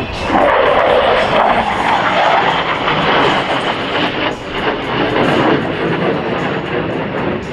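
Jet noise from a Lockheed Martin F-35A's single Pratt & Whitney F135 afterburning turbofan as the fighter flies its display. The noise swells sharply just after the start and stays loud throughout, dipping briefly about four seconds in.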